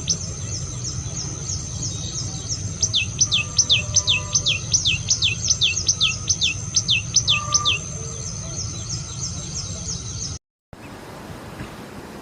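A bird calling in a rapid series of sharp, high, downward-sliding whistles, about four a second, over a steady high insect-like drone. Near the end the recording cuts to a plain hiss.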